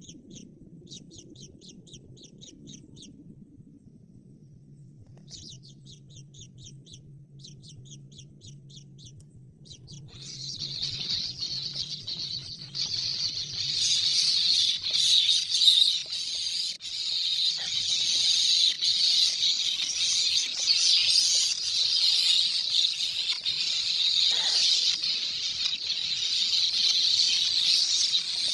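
Bird chirping in short groups of rapid, high trills. About ten seconds in, a loud, continuous high-pitched chorus takes over and grows louder a few seconds later.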